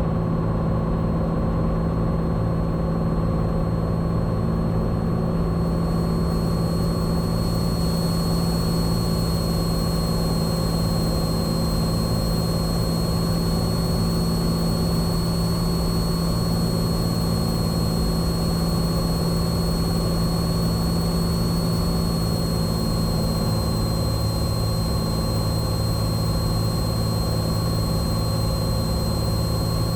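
Steady, even drone of a Cessna 182T's Lycoming IO-540 six-cylinder engine and propeller, heard inside the cabin on short final approach. A thin high whine runs under it.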